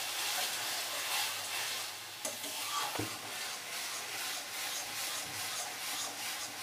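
Onion paste with ginger-garlic paste sizzling in hot oil in a metal kadai while a metal spatula stirs and scrapes it around the pan, with a couple of light knocks of the spatula about two and three seconds in. The masala is being fried down until well browned.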